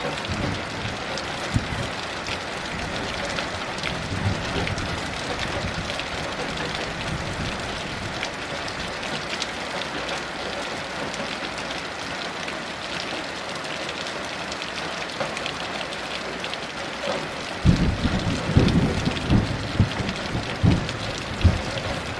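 Heavy rain hissing steadily. About three-quarters of the way in, thunder starts rumbling low under the rain, rolling unevenly with several louder booms.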